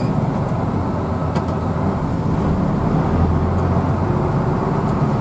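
Hino AK bus under way, heard from inside the cabin: a steady low engine and road rumble, with a deeper hum swelling for about a second around three seconds in.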